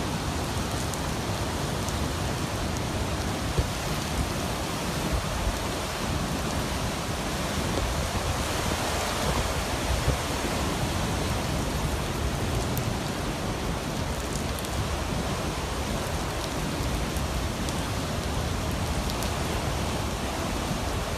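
Steady rushing of wind and water in stormy weather, with wind buffeting the microphone as a low, uneven rumble.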